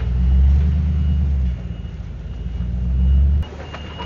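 Heavy equipment engine running close by with a low, pulsing rumble, cutting off abruptly about three and a half seconds in.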